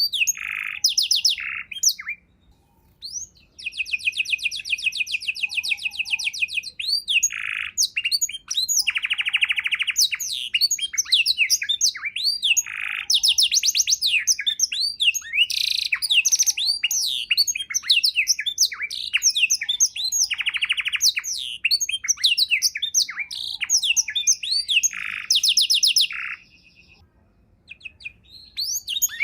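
Domestic canary singing a long, varied song of fast rolled trills and quick sweeping chirps. It breaks off briefly twice, a few seconds in and near the end.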